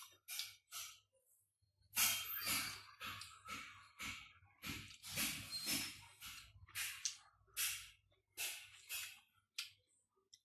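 Close mouth sounds of a person chewing green-skinned pomelo flesh, in irregular short bursts, with breathing.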